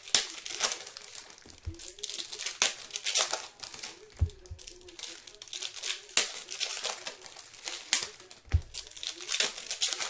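Basketball trading-card pack wrappers crinkling and tearing in a steady irregular crackle as packs are opened and handled, with a few dull thumps on the table.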